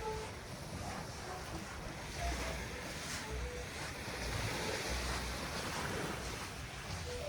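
Sea waves washing onto the beach, with wind buffeting the microphone in low gusts. A few short faint tones sound in the background.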